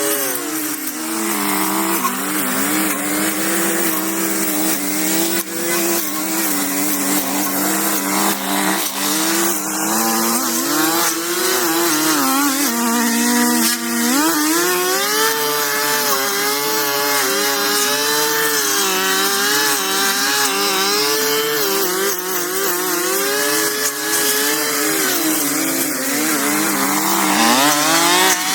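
Small petrol engine of a handheld power tool running and revving, its pitch falling off about a second in, holding steady for long stretches, climbing and stepping up and down in the middle, then dropping and picking up again near the end.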